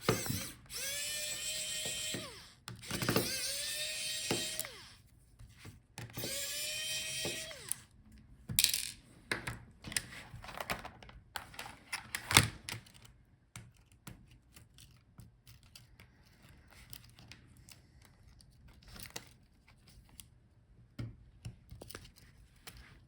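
Small electric screwdriver running three times, about two seconds each, spinning up and winding down as it backs out the touchpad's screws. Light clicks and handling of small parts follow.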